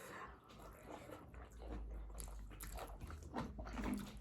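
A person chewing and biting food, with faint, irregular crunchy clicks.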